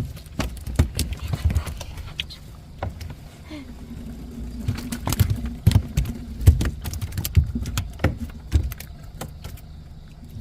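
Large wild carp thrashing while being handled, giving irregular wet slaps and heavy thumps.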